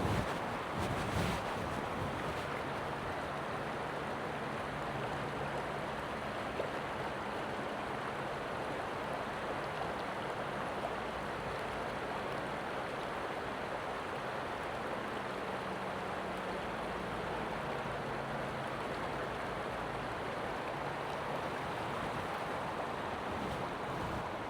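Creek water rushing steadily, an even unbroken hiss of flowing water, with a faint low hum underneath.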